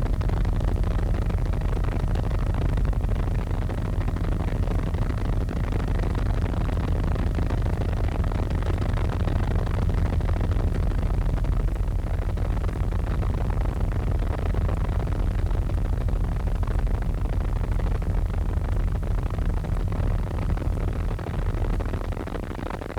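Helicopter engine and rotor noise heard from inside the cabin: a steady, loud rumble with a dense hiss above it, dipping slightly near the end.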